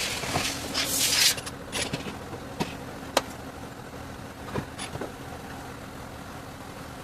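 A burst of hissing air for about the first second, then a handful of separate metallic clicks and knocks from tools being handled.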